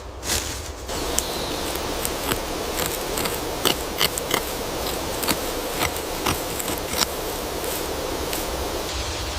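Steady outdoor hiss, like wind or running water, with scattered light clicks and taps at irregular intervals.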